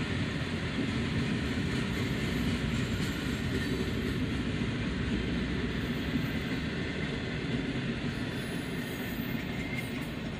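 Freight cars of a CSX manifest train, tank cars and then an autorack, rolling past as the train comes up to track speed: a steady noise of steel wheels running on rail.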